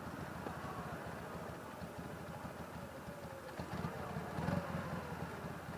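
Motorcycle engine idling with a steady low pulsing, briefly swelling louder about four and a half seconds in.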